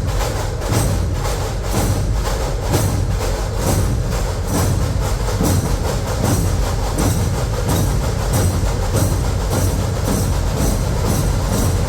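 Dhol-tasha ensemble drumming: many big dhol drums beating a heavy low pulse under the sharp, rapid strokes of tasha snare drums, in a fast, steady rhythm.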